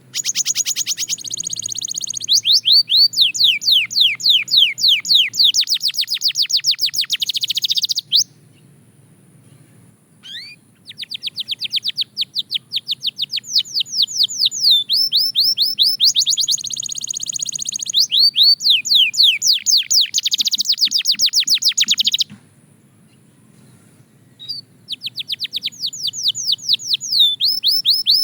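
Belgian canary singing in three long phrases of rapid repeated high notes and fast trills, with pauses of about two seconds before the second and third phrases.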